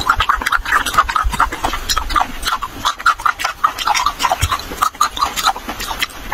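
Close-miked eating sounds: wet chewing and lip smacking in quick, irregular clicks.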